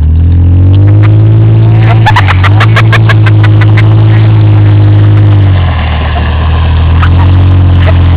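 Small truck's engine accelerating under load, its pitch rising and then holding. About two seconds in it dips briefly with a run of rapid clicks, it eases off near six seconds, and it climbs again about a second later.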